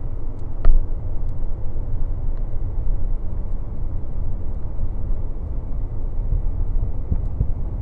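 Cessna Citation Ultra on its takeoff roll, heard in the cockpit: a steady low rumble of the twin turbofans at takeoff power and the wheels on the runway, with one sharp thump about a second in and a few light clicks.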